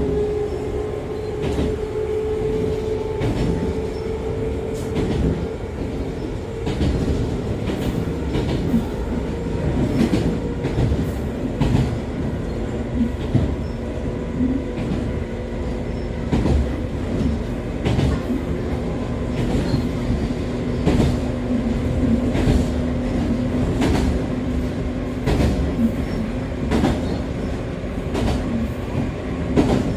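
Echizen Railway MC6101-series electric railcar with MT54 DC traction motors, heard from inside the car as it runs between stations: a steady running rumble with frequent rail-joint clicks, and a motor-and-gear hum that shifts to a lower tone partway through. The recorded car is singled out as one with an abnormal running noise.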